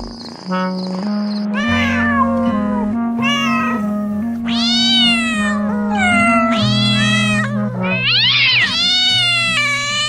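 A cat meowing over and over, about six drawn-out meows that rise and fall in pitch, over background music with sustained notes.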